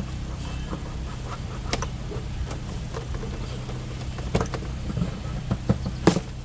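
Scattered clicks and knocks of plastic intake and airbox parts being handled and worked loose in the engine bay, over a steady low hum. The sharpest knocks come in the second half.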